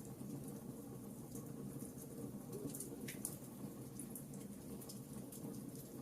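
Wood fire crackling in a fireplace: irregular sharp crackles and pops scattered over a steady low noise from the burning fire.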